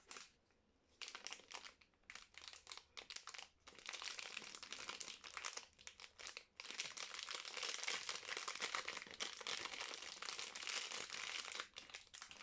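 Soap wrapper crinkling as a bar of soap is unwrapped by hand: short separate crinkles at first, then unbroken crinkling for about five seconds that stops shortly before the end.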